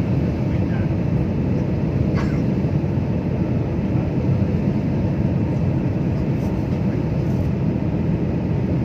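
Steady airliner cabin noise in flight: an even, low rush of engines and airflow.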